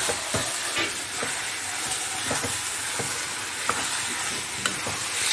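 Minced chicken frying and sizzling in a pan while it is stirred, with a spoon scraping and knocking against the pan every second or so.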